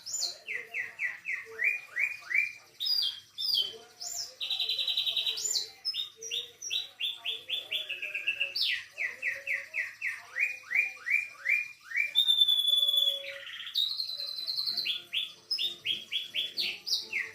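Domestic canary singing a long, varied song, tutored with phrases copied from cililin, katem, sogon and sikatan londo. It runs through series of quick repeated downward-sweeping notes, rapid trills and buzzy rolls, with brief pauses between phrases.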